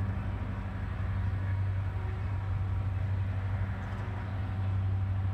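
Freight train running past at a distance: a steady low rumble and hum.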